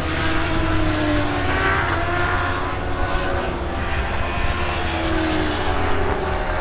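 Superbike racing motorcycles running hard on track, several engine notes rising and falling in pitch over a steady low rumble.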